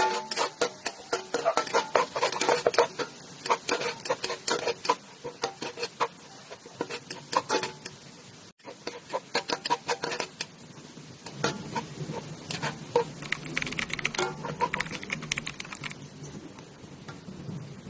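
Kitchen utensils clicking and tapping rapidly against cookware during cooking. The sound breaks off for an instant about halfway through, then goes on with sparser taps over a low steady hum.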